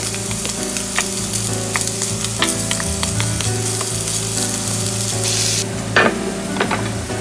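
Food sizzling in a hot frying pan, with scattered light clicks from a utensil. The sizzle stops about five and a half seconds in, and a couple of louder clatters follow.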